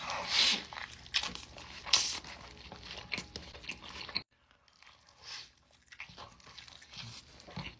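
Close-up eating sounds: a person biting and chewing food, with crunching. About four seconds in the sound cuts off abruptly, and fainter chewing follows.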